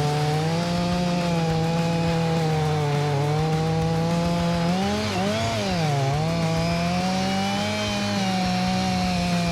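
Chainsaw running at high revs as it cuts into a tree trunk. Its pitch dips and recovers about five seconds in, as the chain comes under load in the cut.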